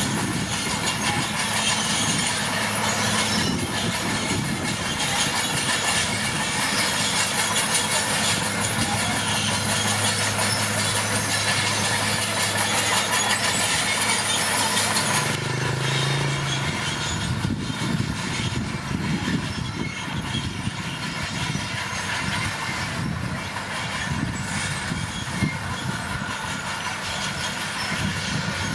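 Komatsu D41P crawler dozer working: its diesel engine running steadily under a dense clatter and squeal of the steel tracks. About halfway through the sound changes abruptly, the engine tone fading under rougher track rattling.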